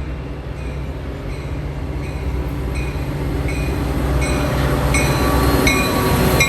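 Train approaching, its low rumble growing steadily louder, with a bell ringing evenly about once every three-quarters of a second.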